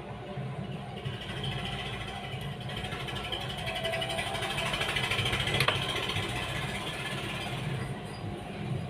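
A motor vehicle going past, growing louder and then fading, over a steady low hum, with one sharp click a little past halfway.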